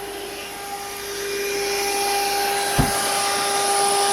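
Nissan Grand Livina's electric radiator cooling fan running with a steady whine and rush of air, growing louder over the first couple of seconds. It is hard-wired direct as a temporary fix because the fan relay No. 3 socket in the IPDM is burnt. A single low thump about three seconds in.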